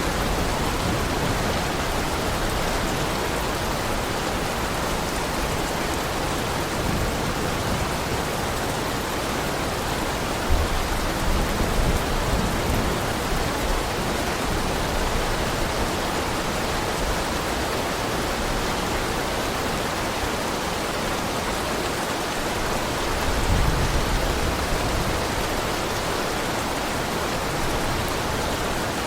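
Heavy rain falling steadily in a dense, even hiss, with a low rumble swelling up twice.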